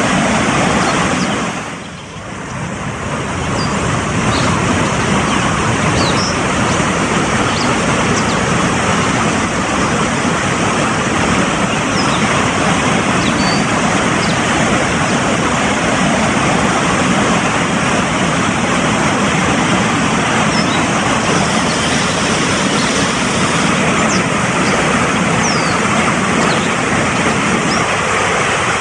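Fast-flowing mountain stream rushing over rocks, a steady loud water noise that dips briefly about two seconds in.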